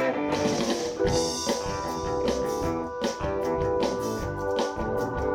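A live band playing an instrumental passage: held keyboard or organ chords over guitar and a drum kit keeping a steady beat, with no singing.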